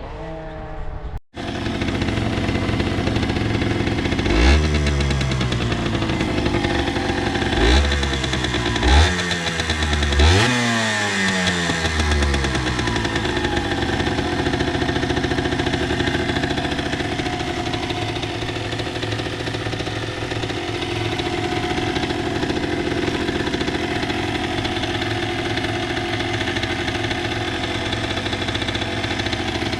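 Honda CRM50's 50cc two-stroke single-cylinder engine idling, blipped four times with quick throttle revs that rise and fall back, between about 4 and 11 seconds in, then settling back to a steady two-stroke idle.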